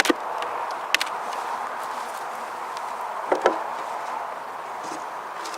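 Honey bees buzzing steadily around an open hive, with a few sharp wooden knocks (near the start, about a second in, and twice at about three and a half seconds) as the wooden hive boxes are worked apart.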